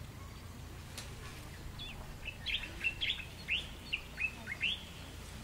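A bird calling: a quick run of short, high chirps lasting about three seconds.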